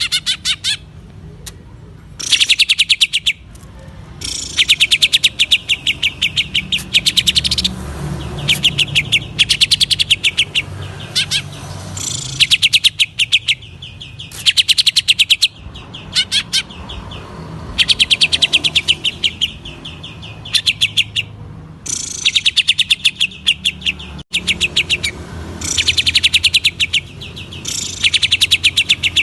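Green leafbird (cucak ijo) singing in its 'ngentrok' style: fast trains of sharp repeated chattering notes, in bursts of one to two seconds with short pauses between them.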